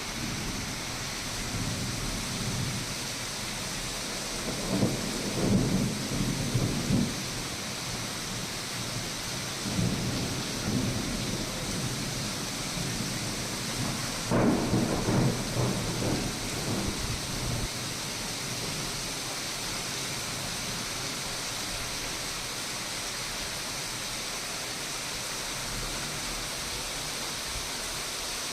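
Steady rain during a thunderstorm, with three rolls of thunder about five, ten and fifteen seconds in, the last one starting most sharply.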